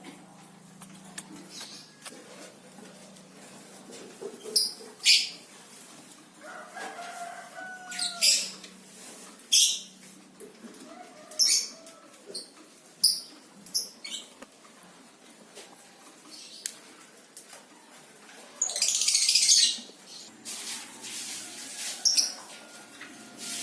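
Small songbird fluttering its wings in its cage: short bursts of wing-flapping every second or two, with one longer flutter about nineteen seconds in.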